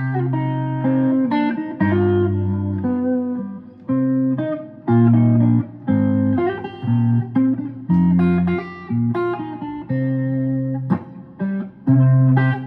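Guitar picked and strummed, playing a bluesy run of single notes and chords, each note struck sharply and ringing briefly before the next.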